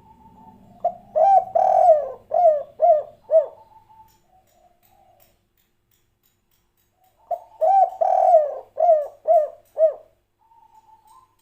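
Spotted dove (tekukur) singing its 'kuk 3' coo song, two phrases a few seconds apart. Each phrase is a short lead note, a long swelling coo, then three quick shorter coos that fall in pitch.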